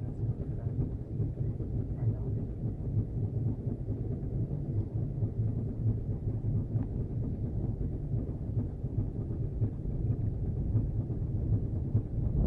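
A boat's motor running steadily, a low rumble, with wind on the microphone.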